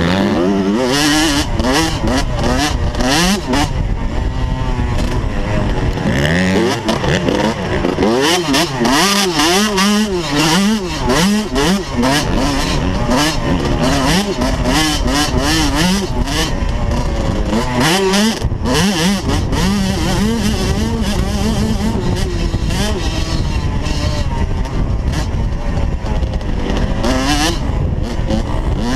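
Motocross dirt bike engine running hard, revving up and down repeatedly as it is ridden around the track, with frequent gusty noise over the top.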